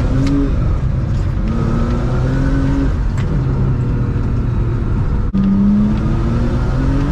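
BMW E46 325Ci's straight-six running through a header-back exhaust while driving, its revs rising and falling, with a brief dip about five seconds in before it climbs again.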